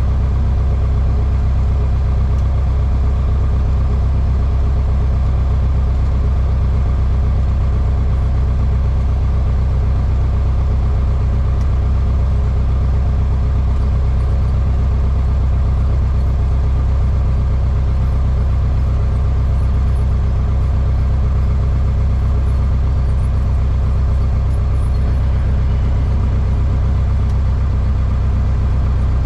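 Cessna 152's four-cylinder Lycoming O-235 engine and propeller droning steadily at constant power, heard from inside the cockpit.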